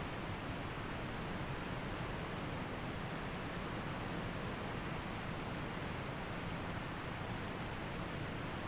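Waterfall rushing, an even steady roar of falling water with no breaks.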